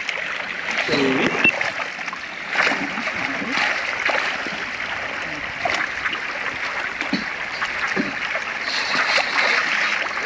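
Continuous water splashing and splattering, with scattered short slaps, as fish thrash in the water of a hauled fishing net.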